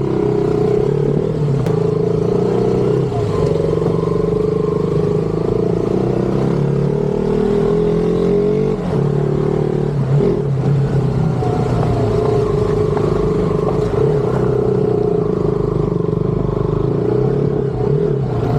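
Motorcycle engine running while riding, its pitch shifting down and up a few times.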